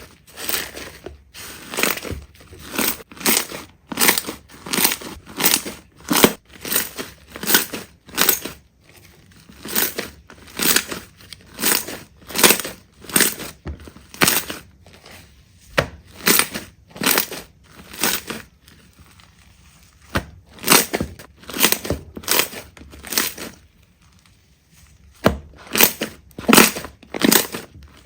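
Slime being squeezed and pressed by hand: a long run of short squishes, about one or two a second, with a brief pause a little before the end.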